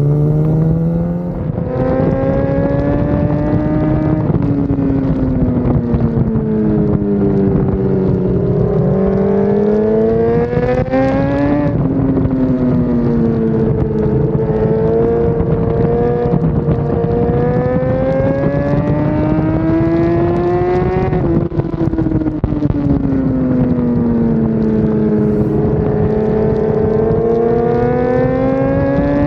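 BMW S 1000 RR race bike's inline-four engine on track, its revs climbing and falling over several seconds at a time with a few sudden drops in pitch at gear changes, over steady wind and wet-road noise.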